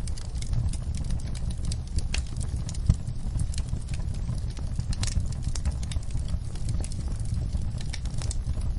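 Wood fire crackling: irregular sharp pops and snaps over a steady low rumble of flames, with one louder pop about three seconds in.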